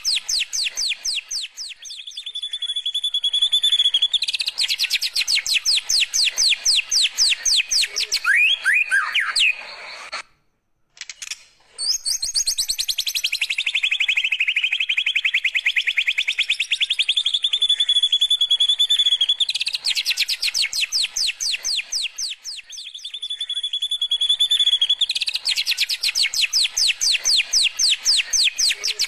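White-rumped shama (murai batu) singing canary-like song: a held high whistle breaks into long, very rapid trills, with a few quick downward slurred notes between phrases. The song cuts out briefly about a third of the way through, then resumes with the same pattern.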